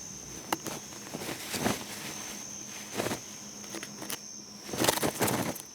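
Insects trilling at one steady high pitch, with several brief scratchy sounds over it, the loudest near the end.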